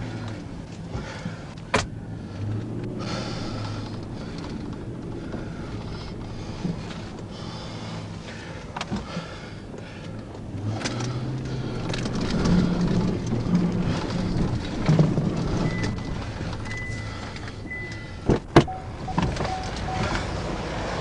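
Vehicles running and passing on the interstate: a steady rumble that swells for a few seconds past the middle. Two sharp clicks are heard, one about two seconds in and one near the end.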